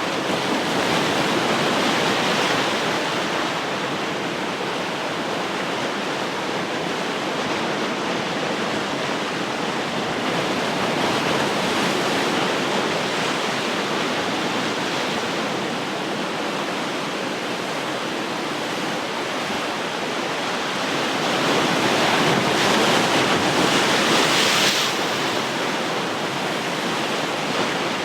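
Ocean waves breaking and washing on the shore in a steady rush, with two swells of louder surf, one just after the start and a longer one about three-quarters through.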